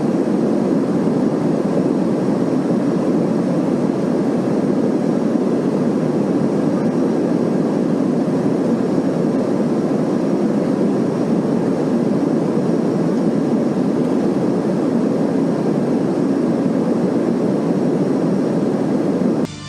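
Steady, even drone of an airliner cabin in flight.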